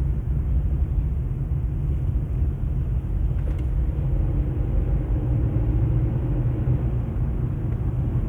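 Steady low rumble of a car heard from inside its cabin, with a faint click about three and a half seconds in.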